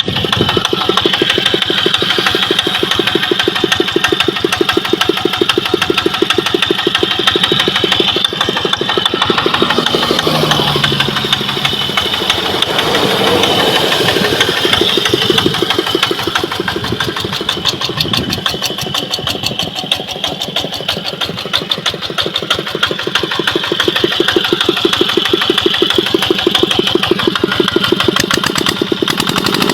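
Kubota ET110 walking tractor's single-cylinder diesel engine running with an even, rapid chugging of firing strokes. It eases off a little in level for a few seconds around the middle.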